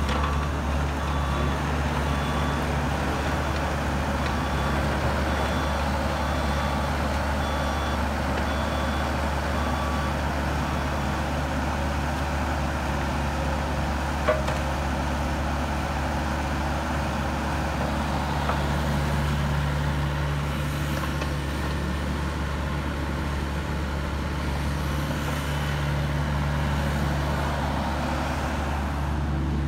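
Bobcat E26 compact excavator's diesel engine running steadily, with a travel alarm beeping evenly for the first ten seconds or so. A single sharp knock sounds about halfway, and the engine note rises at times later as it works under load.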